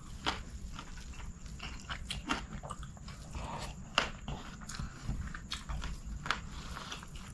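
Close-miked eating sounds of a man chewing mouthfuls of chicken biryani: wet chewing and smacking with irregular sharp mouth clicks, the loudest about four seconds in. His fingers gather rice on a banana leaf.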